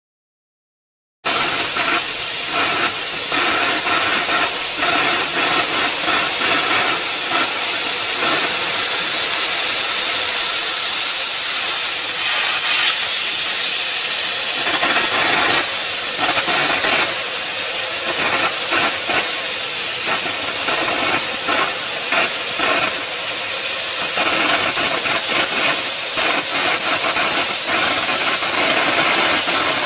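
Oxy-fuel cutting torch on a CG1-30 track cutting machine, its jet hissing loudly and steadily with a fine crackle as it cuts. The hiss starts suddenly about a second in.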